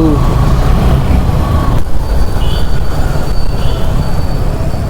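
Motorcycle riding in traffic: wind rushing over the microphone with the engine running, a dense steady low rumble.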